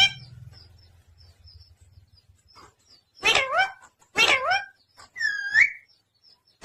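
Pet parrot calling three times in quick succession, each call short with a pitch that bends up and down. The third is a clear whistle-like note.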